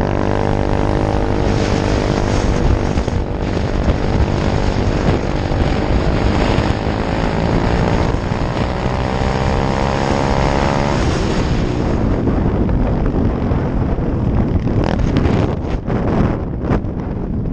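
Apollo 125 cc dirt bike's single-cylinder engine running as the bike is ridden, climbing in revs around eight to eleven seconds in. After that the engine note sinks under wind buffeting the microphone.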